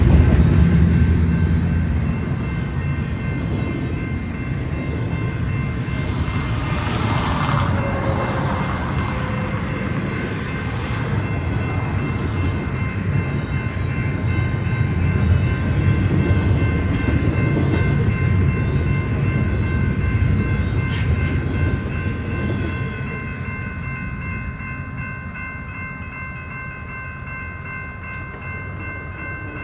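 A freight train rolling past on the rails, a steady low rumble of wheels and cars that slowly fades as it moves away near the end, with a few steady high ringing tones over it.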